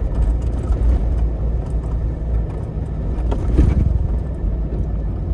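Jeep driving on a snow-covered road: a steady low rumble of engine and tyres, with scattered light clicks and a brief swell about three and a half seconds in.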